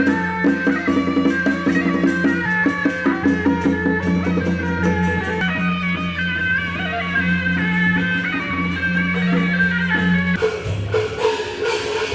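Taiwanese temple-procession wind-and-drum music: suona shawms playing a melody over drums and percussion, with a steady low held tone underneath that shifts about ten seconds in.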